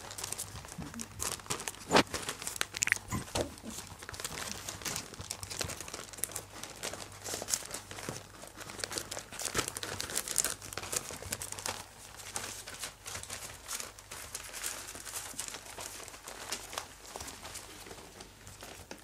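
Young puppies moving about on crinkly bedding, making continuous crinkling and rustling with many small scratches, and one louder knock about two seconds in.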